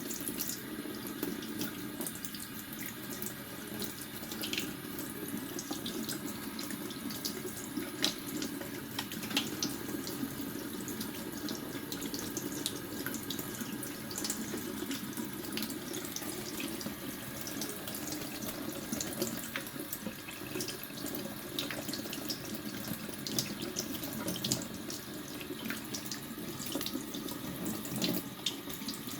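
Water running steadily from a tap and splashing into a sink, with many small sharp splashes scattered through it, as a budgie bathes in the stream.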